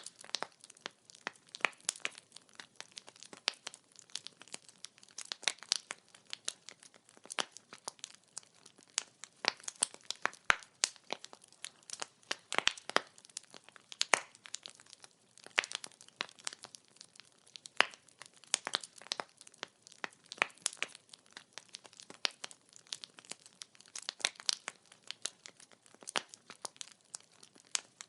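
Burning firewood crackling, with irregular sharp pops and snaps several times a second over a faint hiss.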